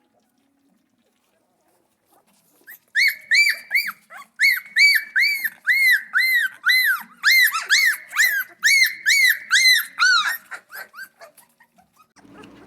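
Central Asian shepherd puppy crying in a fast run of high-pitched whines, about two to three a second, starting about three seconds in and trailing off near the end.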